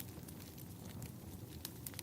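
Wood fire crackling in a fireplace: irregular sharp pops and ticks over a low, steady rumble.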